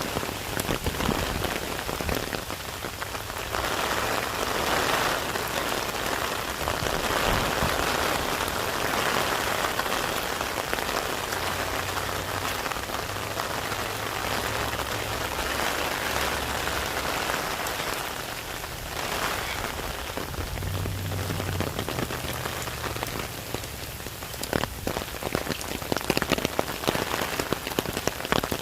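Steady rain falling, with single drops tapping close by near the end.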